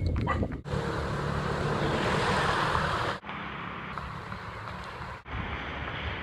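Steady rushing noise of wind on the microphone, cut off abruptly and resumed at a different level several times.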